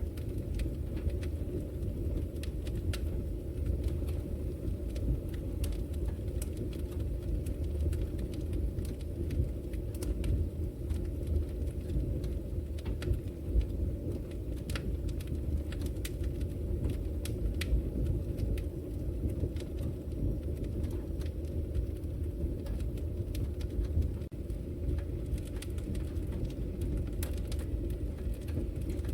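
Wood logs burning in a fireplace: a steady low rumble of the fire with frequent, irregular sharp crackles and pops of the burning wood.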